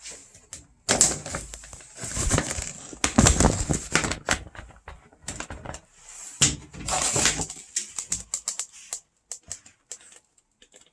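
Irregular clicking, clattering and rustling of things being handled, in uneven bursts with a short lull midway.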